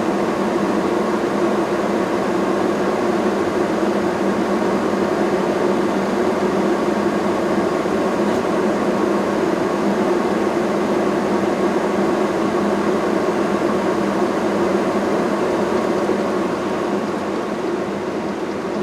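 Steady hum of an electric blower fan running without a break, easing off slightly near the end.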